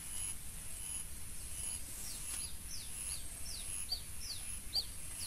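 A bird calling a rapid series of short, high, downslurred whistles, about four or five a second, starting a little before halfway through.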